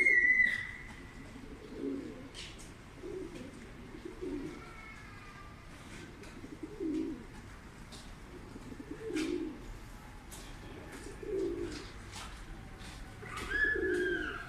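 Pigeons cooing, low soft coos repeating every one to two seconds. A louder high whistle sounds at the start and again near the end.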